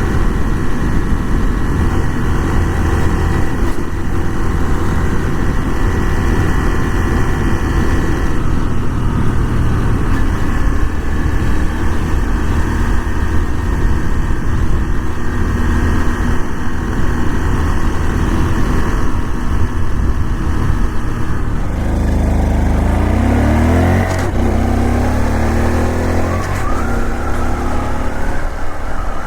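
Honda Super Cub 125's single-cylinder four-stroke engine running on the move, under a steady rush of noise. About three-quarters of the way in the engine note comes through clearly and climbs in pitch in repeated rising sweeps as the bike accelerates.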